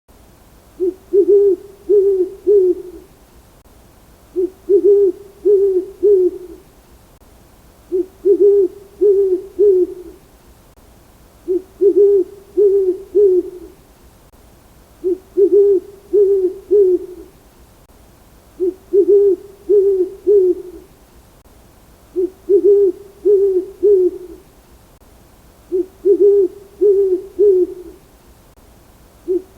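A bird giving low, hooting three-note phrases, each phrase repeated about every three and a half seconds.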